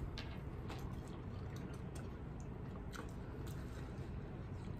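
Quiet chewing and small wet mouth clicks from people eating hot chicken wings, over a steady low room hum.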